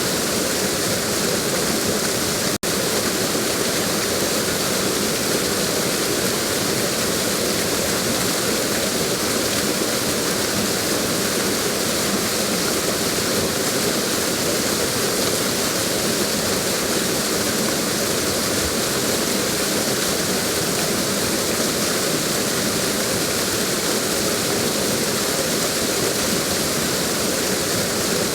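Waterfall: water falling and splashing in a steady, even rush, broken only by a momentary dropout about two and a half seconds in.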